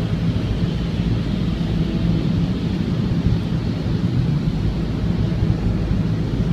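Steady road noise inside a car's cabin at freeway speed on a wet road: an even low rumble of tyres and engine with a light hiss above it.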